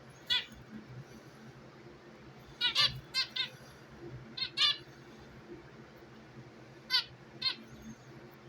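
Pet birds chirping: short, sharp calls in small clusters with pauses between, over a steady low hum.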